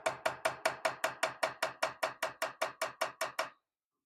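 Small hammer tapping a chisel in quick, even strokes, about five a second, with a short metallic ring on each, deepening a dovetail groove in a wrought iron cross-guard for an inlay. The tapping stops about three and a half seconds in.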